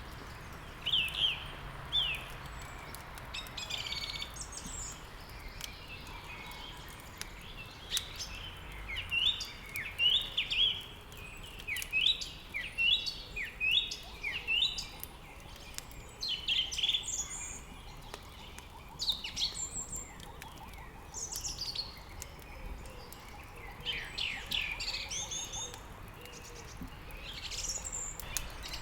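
Songbirds chirping and trilling, a steady run of short, repeated phrases over a faint background hiss.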